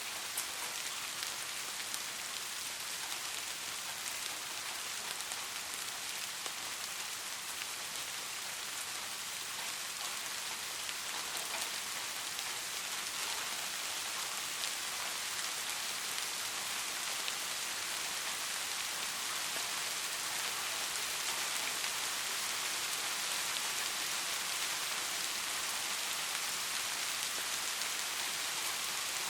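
Steady rainfall: a dense, even hiss of many small raindrops pattering, getting slightly louder in the second half.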